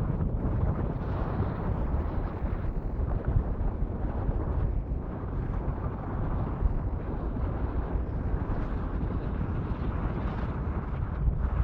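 Wind buffeting the microphone: a steady, low rumbling noise with no distinct taps or calls.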